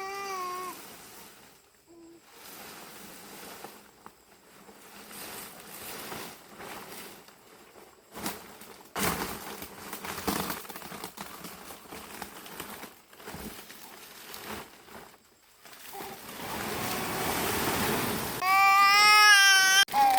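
A young child's high-pitched wavering voice right at the start and again, louder, near the end, with rustling and scattered knocks in between.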